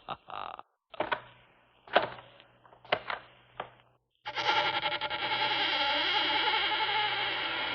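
Four heavy knocks on a door, each ringing out briefly, about a second apart. Just past the middle a loud, sustained whirring drone with wavering tones starts up and holds steady.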